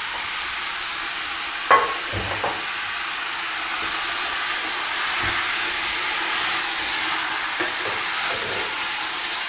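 Chicken pieces and sliced onion frying in smen and oil in a stainless steel pot, a steady sizzle, stirred with a wooden spoon. A single sharp knock sounds a little under two seconds in.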